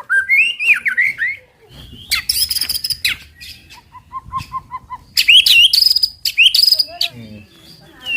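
White-rumped shama singing a fast, varied 'tembakan' song: quick runs of slurred whistles, a loud high rasping stretch, and about eight short, even, lower notes in a row midway.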